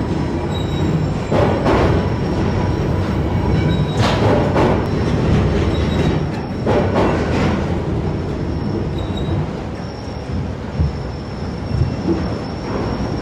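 Heavy machinery running steadily, with thin metallic squeals coming and going and louder clanking surges about a second and a half, four and seven seconds in.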